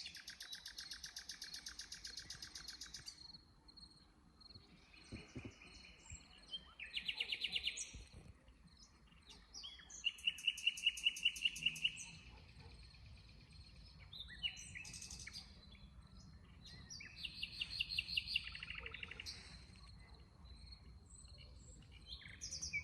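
Several woodland songbirds singing, with bursts of rapid trilled phrases every few seconds and shorter chirps between them. The sound cuts off suddenly at the end.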